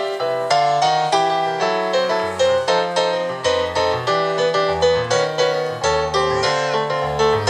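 Instrumental piano music: a steady stream of struck melody notes over a line of held low bass notes.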